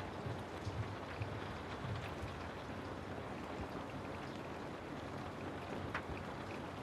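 Steady rain falling on a house: an even hiss with a few sharper drop taps, one near the end.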